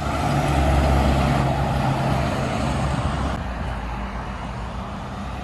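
A heavy truck's engine and tyres as it drives past, loudest about a second in and then fading away.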